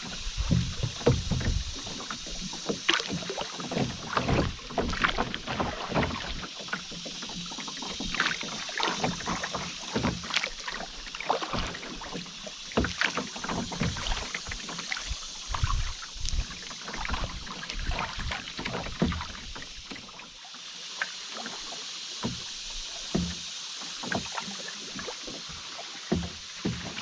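Canoe paddling on a river: irregular paddle splashes, drips and light knocks over a steady rush of water. The splashes and knocks thin out about three-quarters of the way through, leaving mostly the water's hiss.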